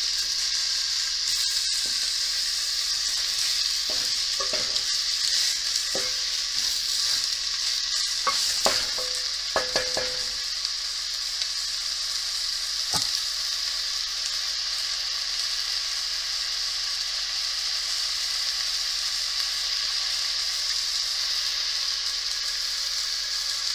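Marinated chicken pieces and onions sizzling steadily in hot oil in a nonstick pot. During the first half, a wooden spatula scrapes and knocks against the pot a few times.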